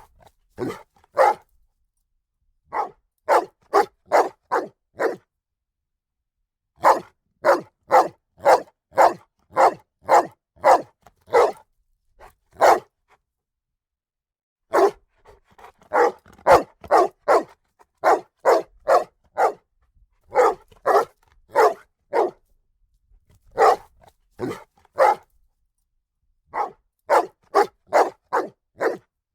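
A dog barking repeatedly, in runs of several barks at about two a second, broken by pauses of a second or two.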